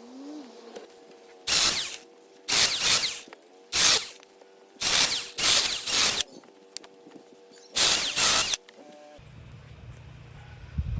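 An electric power tool's motor runs with a steady hum, and six short, loud bursts of cutting or crunching wood break in over several seconds.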